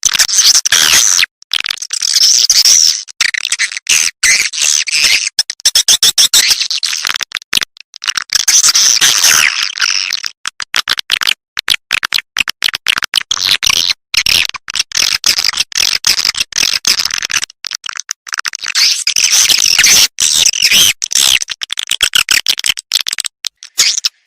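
Swiftlet lure call as played from speakers in swiftlet farming: a dense, high-pitched chatter of twittering chirps and fast clicking runs, broken by short gaps.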